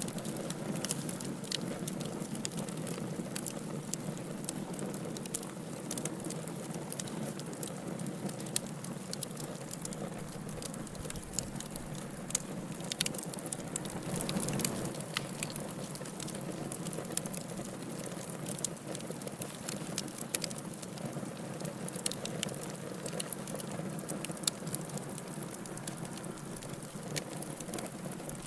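Wood fire burning in a fireplace, crackling with irregular sharp pops over a low, steady rush of flame.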